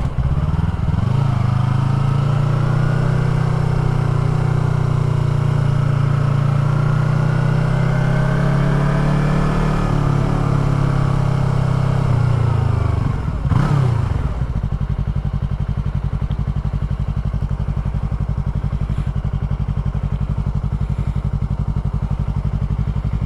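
Motorcycle engine running at low speed with its pitch wavering slightly, then dropping about 14 seconds in to a steady, even idle.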